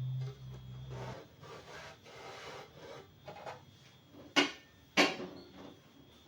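Household cleaning sounds: a few soft rubbing strokes on a surface, then two sharp knocks about half a second apart as objects are set down. A low hum stops about a second in.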